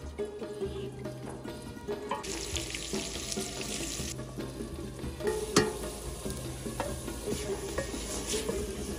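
Chopped tomatoes and green chillies sizzling in hot oil in an aluminium pot as a wooden spoon stirs them. The sizzle swells about two seconds in and again near the end, with a sharp knock about halfway through.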